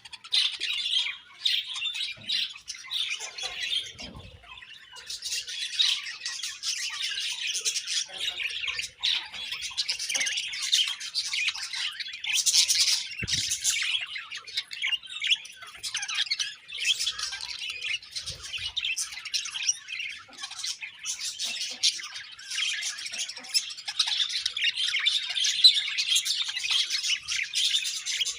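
A flock of budgerigars chirping and chattering continuously, many birds calling over one another with short squawks.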